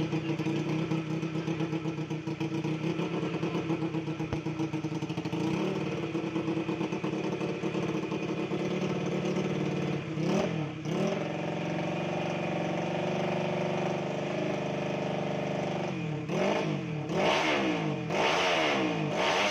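Tuned Yamaha Mio scooter's 130 cc single-cylinder four-stroke engine running at a steady idle, then revved: one quick throttle blip about halfway through and a run of several blips near the end, the pitch rising and falling each time.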